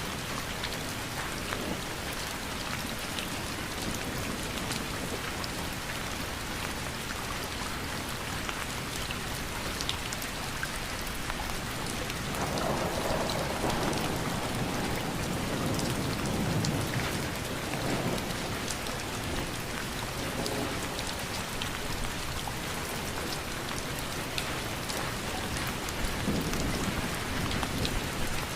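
Steady rain falling, with individual drops pattering sharply on a surface. A low rumble of thunder swells up about halfway through and again briefly near the end.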